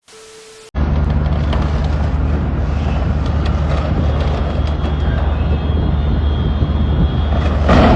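A vehicle's engine running steadily and loudly, cutting in abruptly about a second in, with a louder rush of noise near the end.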